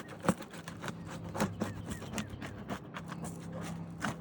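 An asphalt shingle being unsealed with a roof snake pry tool: irregular scrapes and sharp cracks as the tool breaks the shingle's sealant strip, the loudest crack about a third of a second in. A steady low hum runs underneath.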